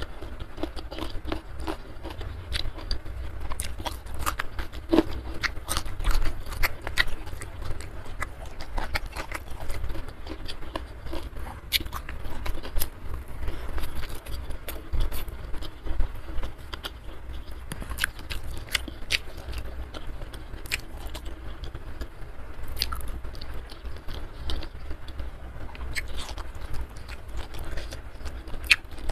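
Close-miked chewing and biting of food, with many irregular wet clicks and small crunches, over a steady low hum.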